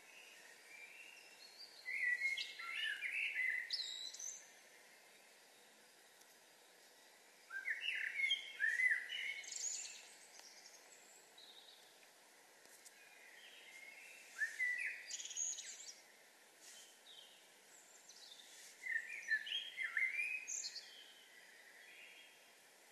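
A songbird singing four warbling phrases, each about two to three seconds long and several seconds apart, over a faint steady background hum.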